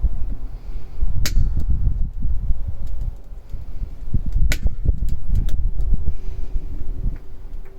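Wood bonfire burning with a loud, uneven low rumble, broken by two sharp pops about a second in and about four and a half seconds in, then a few lighter crackles. A faint steady hum comes in about six seconds in.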